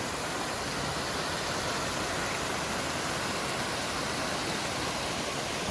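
Creek waterfall, water rushing in a steady, even roar.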